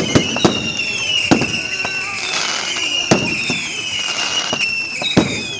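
Fireworks display going off: a rapid run of sharp bangs and crackles, with several high whistles that glide downward in pitch, overlapping one another.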